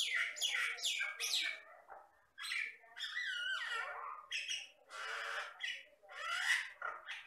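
A common myna (Jalak Batam) singing a run of harsh squawks and chattering notes mixed with whistled phrases that slide down in pitch, with brief pauses twice.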